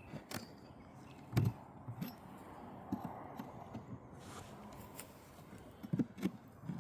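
Scattered soft knocks and scrapes of a wooden beehive being opened, with one heavier thud about a second and a half in.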